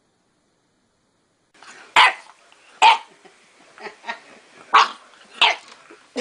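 A dog barking: a string of sharp barks starting about a second and a half in, roughly one a second, with a couple of quieter ones in between.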